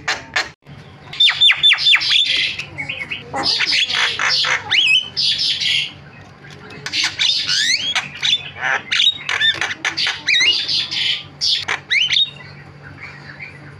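Javan myna (jalak kebo) calling: harsh squawks and chatter mixed with quick rising and falling whistles, in three bursts, falling quiet near the end.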